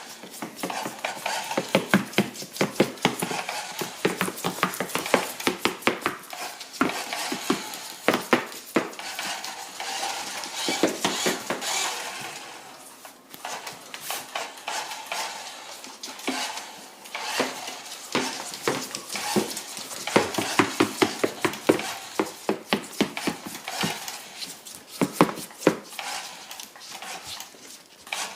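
Irregular clattering knocks and scrapes of hard surfaces: a tortoise's shell bumping and shoving against a truck, with a brief lull about halfway through.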